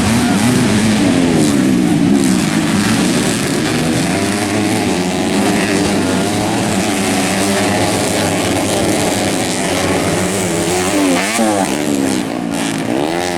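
Several dirt bikes racing on a grasstrack circuit, their engines revving up and down. The engine notes overlap and keep rising and falling in pitch with throttle and gear changes.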